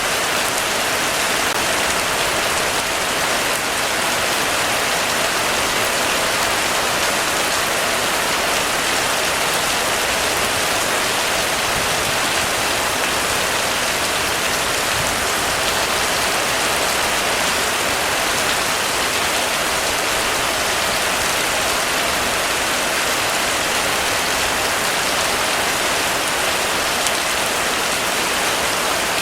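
Heavy rain falling steadily on a roof, an even, unbroken hiss of drops.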